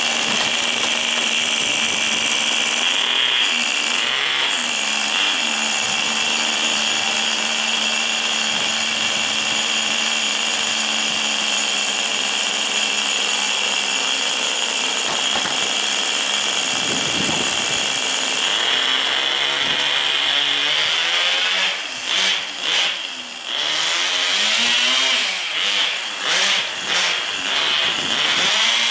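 Small two-stroke glow (nitro) engine of a Tamiya TGS 1/10 RC car running with a steady high-pitched whine. From about twenty seconds in, the revs rise and fall repeatedly. The owner finds the engine in very good running condition.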